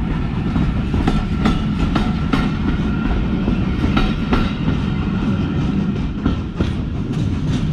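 Jacobite steam train running on the line: a steady low rumble with irregular clacks of wheels over rail joints and a thin steady whine above.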